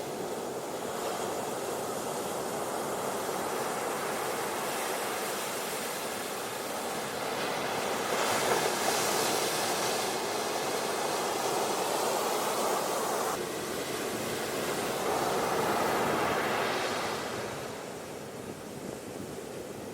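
Ocean waves washing onto a beach, a steady rush of surf that swells louder about eight seconds in and again around fifteen seconds, then eases near the end.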